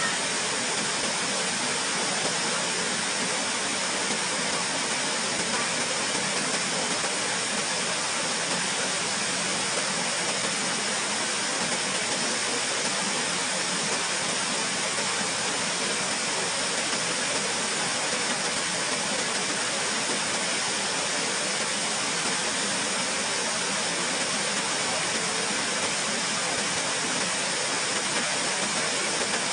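Waterfall: falling water making a steady, even rushing noise without a break.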